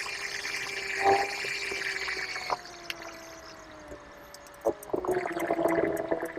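A car's drivetrain whine heard from inside the cabin while driving, a steady pitched tone that slowly falls as the car eases off. There are a few faint clicks, and the sound grows louder again near the end.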